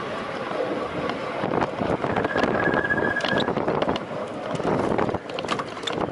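Wind rushing over the microphone of a camera riding on a road bike at speed, with small clicks and rattles throughout. About two seconds in, a thin, steady high squeal sounds for about a second.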